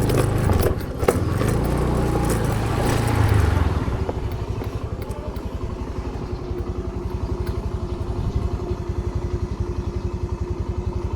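Motorcycle engine running, with a few knocks and clatter early on; about four seconds in it settles into a steady, even idle beat.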